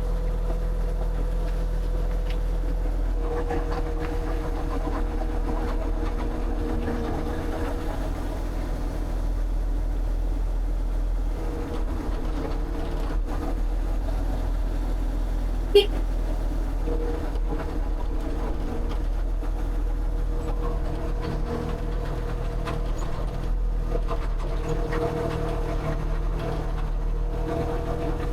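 An engine running steadily, with one sharp click about halfway through.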